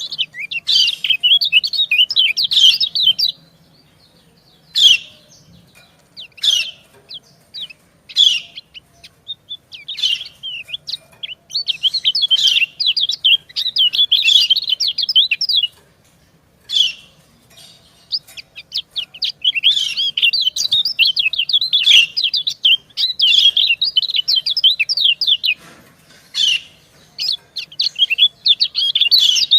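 White-eyes (kecial kuning) calling: short single 'ciak' chirps and several-second runs of rapid high twittering. These are female calls answered back and forth by a male.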